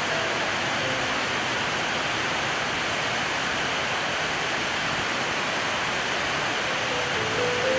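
Steady rain falling on corrugated sheet roofs and a clay-tiled roof, an even hiss.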